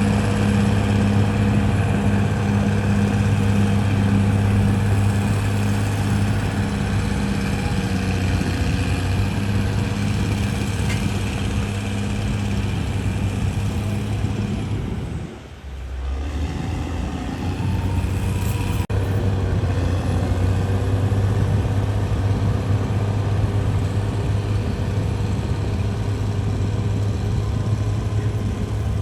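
CAT D6R bulldozer's diesel engine running steadily, with a brief drop in level about halfway through before it runs on.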